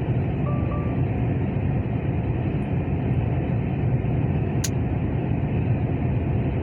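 Truck engine running with a steady low drone. There is a single sharp click about four and a half seconds in.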